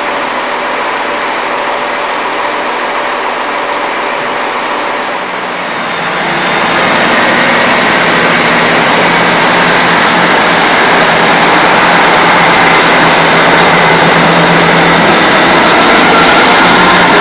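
Diesel locomotive hauling a permanent-way engineering train, its engine running under load. It grows louder and fuller about six seconds in as it draws close, and a few higher tones rise slowly in pitch towards the end.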